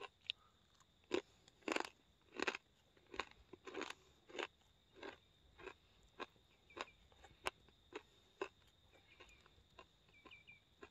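A person chewing crispy fried food, with a crunchy bite repeating about every half second to second, growing fainter toward the end.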